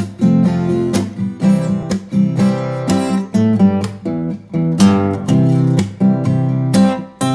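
Acoustic guitar strumming chords in a steady rhythm: the instrumental intro of an acoustic karaoke backing track, before the vocal comes in.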